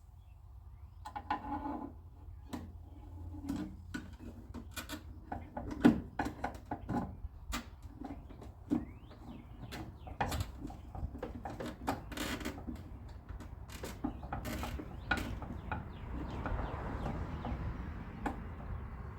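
Irregular clicks, taps and metallic clunks of a 1957 Chevrolet Bel Air outer door handle and lock being worked into place inside the door shell, with one sharp loud click about six seconds in, over a low steady hum.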